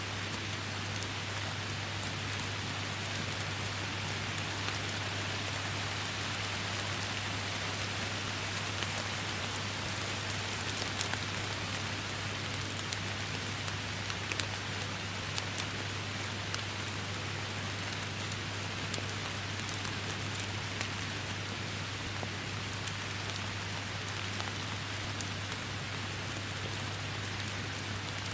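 Steady forest rain: an even hiss of falling rain with many separate drops ticking sharply over it, and a steady low hum underneath.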